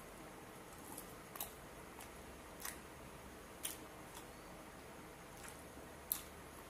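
Mouth noises of someone eating skewered grilled barbecue meat: quiet chewing with a few sharp, wet smacking clicks, the loudest near the end.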